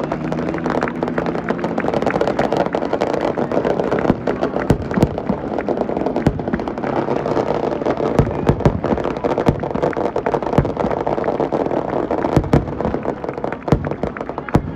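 Dense motorcycle engine noise with many sharp pops and bangs scattered through it.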